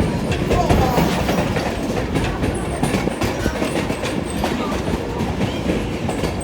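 Passenger train car rolling along the track: a steady rumble of wheels on rails, with many irregular clicks and rattles and a few faint brief squeaks.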